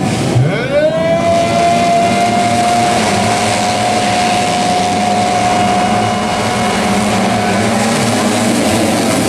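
A motocross dirt bike engine revs up sharply and is held at a steady high pitch for several seconds before dropping away near the end, over a constant noisy background.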